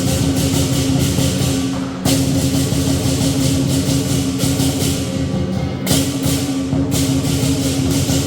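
Lion dance percussion: a big drum beating steadily under crashing cymbals and a ringing gong. Fresh cymbal crashes come about two seconds in and again about six seconds in.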